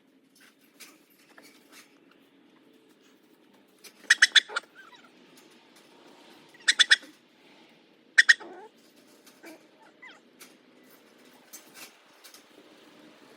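Chickens clucking in three short loud bursts of rapid pulsed calls, with faint scattered clicks and scratching between them.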